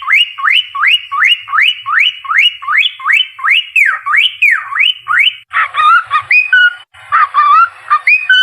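Cockatiel whistling: a rapid run of rising whistles, about three a second, then warbling, wavering whistled notes from about five and a half seconds in.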